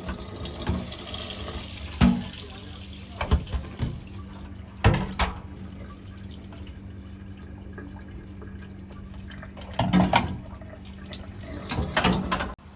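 Tap water running into a sink as small toy cars are washed, with several sharp knocks and clatters as things are handled in the sink.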